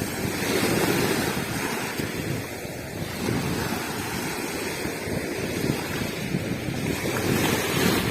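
Sea waves washing onto a beach, a continuous surf noise that swells and eases, with wind buffeting the microphone.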